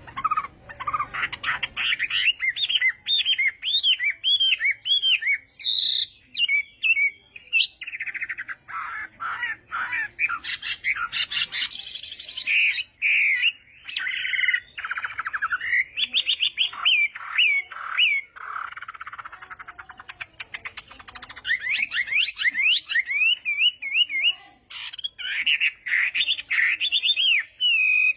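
Chinese hwamei singing a long, varied song of rapid rising and falling whistles and trills, phrase after phrase with short pauses between.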